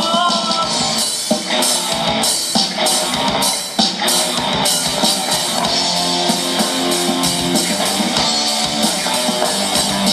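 A band playing an instrumental passage with no vocals: a drum kit keeping a steady beat on the cymbals, under guitar.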